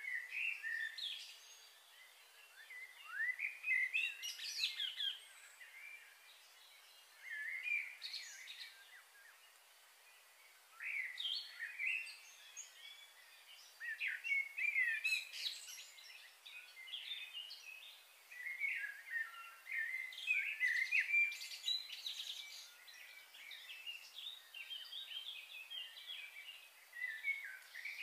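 Small birds singing and chirping in repeated bouts of quick, rising and falling high notes, with short pauses between bouts.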